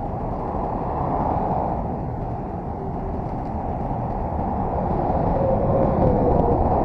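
Heavy truck on the move: a steady rumble of engine and road noise that slowly grows louder.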